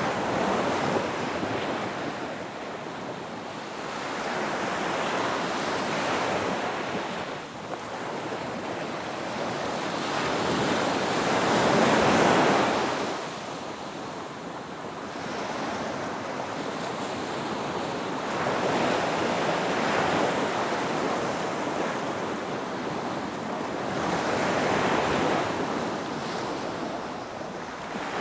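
Ocean waves breaking on a beach, each surge of surf swelling and fading every few seconds, the largest about twelve seconds in, with some wind on the microphone.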